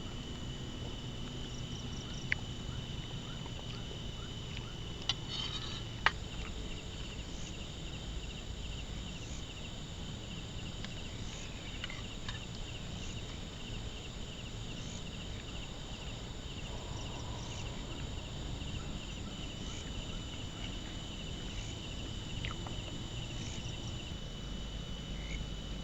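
Insects chirring steadily in the open, over a low wind rumble, with short high chirps every second or two. A few sharp clicks stand out about two and six seconds in.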